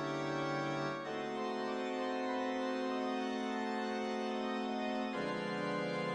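Organ music of held chords, changing to a new chord about a second in and again near the end.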